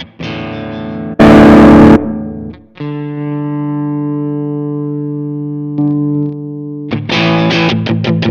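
Electric guitar, a Fender Stratocaster played through a Nux MG300 modeler on a distorted amp model: chords strummed, broken about a second in by a short, very loud burst of hiss-like noise. A chord then rings out for about four seconds, and quick choppy strumming starts near the end.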